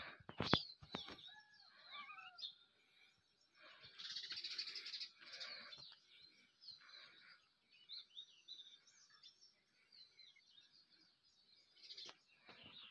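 Several birds chirping and calling faintly, short sweeping chirps scattered throughout, with a denser buzzy trill about four seconds in. A few sharp clicks sound just after the start.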